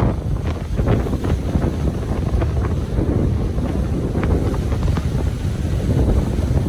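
Ocean surf washing on a beach, a steady rushing rumble with faint crackles of foam, with wind buffeting the microphone.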